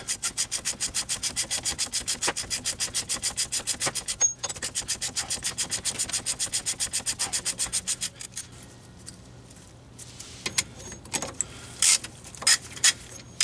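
Socket ratchet clicking rapidly and evenly, about eight clicks a second, as the just-broken-loose front axle nut is run off; it pauses briefly about four seconds in and stops about eight seconds in, followed by a few scattered knocks.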